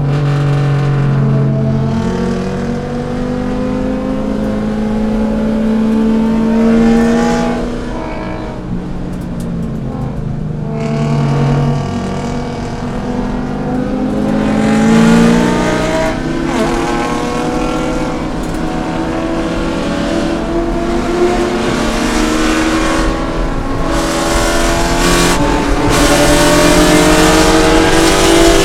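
C5 Corvette's V8 engine at racing speed, its pitch climbing under throttle and dropping back again and again. The engine sounds lower from about eight to twelve seconds in, then climbs again and stays high near the end.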